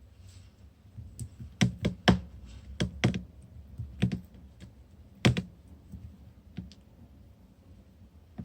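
Slime being pressed and poked by hand, making irregular sharp clicks and pops. The loudest come about 2 seconds in and again just past 5 seconds.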